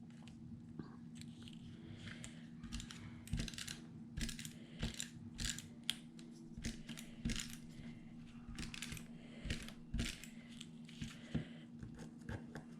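Paper craft pieces being handled on a work table: irregular light taps, clicks and rustles of cardstock and die-cuts being picked up and set down, over a steady low hum.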